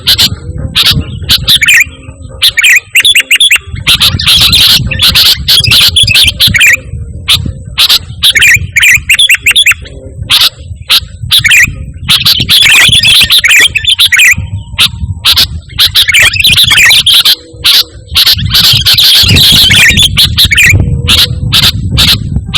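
Sooty-headed bulbul (kutilang) singing in lively phrases of quick bubbling notes, each lasting a second or two, with short gaps between them. A low rumble runs beneath the song.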